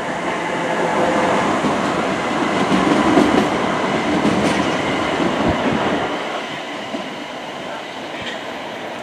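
A train passing: a steady rumble of wheels on rail that swells to its loudest about three seconds in, then fades over the last few seconds.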